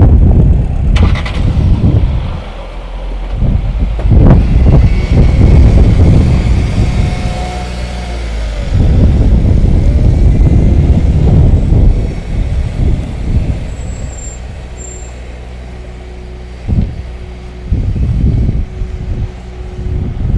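Car and van engines running in slow traffic close by, with a steady low hum and irregular surges of low rumble.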